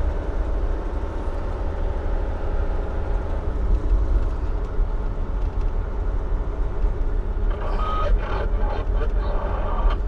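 Dump truck's diesel engine running steadily, heard from inside the cab. A reversing beeper starts sounding about three-quarters of the way through.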